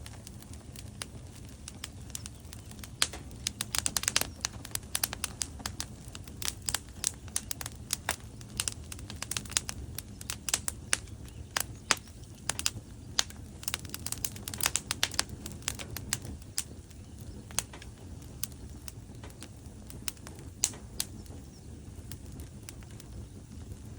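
Wood logs burning in a fireplace, crackling: frequent sharp pops and snaps over a steady low rumble of the flames, busiest in the middle and thinning out near the end.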